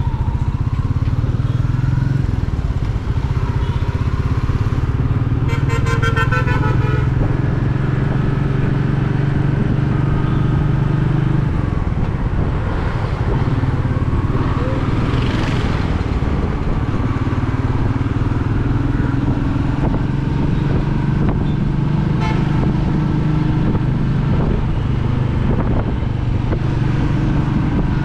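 Royal Enfield Meteor 350's single-cylinder engine and exhaust running steadily while the bike is ridden, the engine note changing about eleven seconds in. A vehicle horn sounds briefly about five seconds in.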